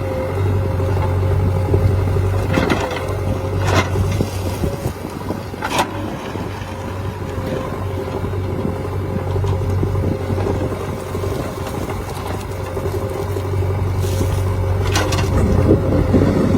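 Diesel engine of a heavy machine running steadily with a deep hum, with a few sharp knocks over it, twice close together about three and four seconds in, once about six seconds in and again near the end.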